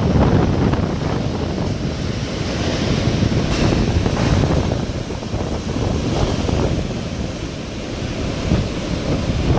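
Hurricane wind blowing hard and buffeting the microphone: a dense low rumble that swells and eases with the gusts.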